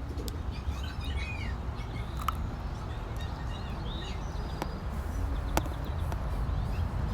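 Birds chirping with short calls over a steady low rumble, with a sharp click about five and a half seconds in.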